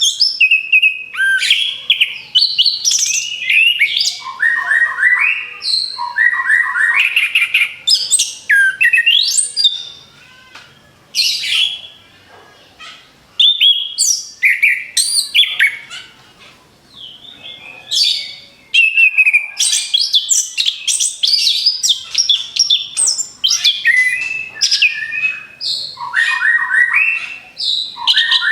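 Orange-headed thrush singing a loud, fast song in rapid strings of varied whistled phrases, with two short pauses near the middle.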